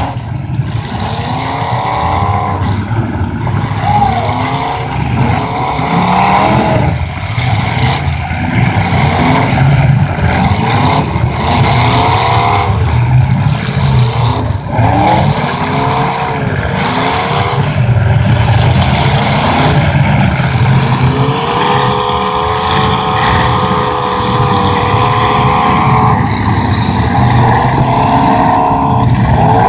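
Engines of full-size demolition derby cars revving hard, their pitch climbing and falling again and again, with an occasional sharp crunch of a collision. About 22 seconds in, one engine is held at high revs for a few seconds before dropping back.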